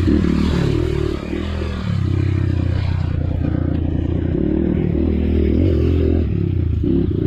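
Trail dirt bike engine running under throttle, its revs rising and falling for the first couple of seconds and then holding fairly steady.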